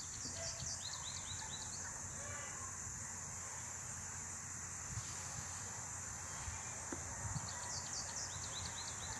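A small bird singing a quick run of short chirps twice, once near the start and again near the end, over a steady high-pitched insect drone.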